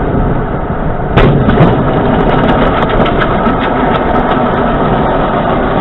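Loud, rough vehicle engine and road noise, with a sharp knock about a second in.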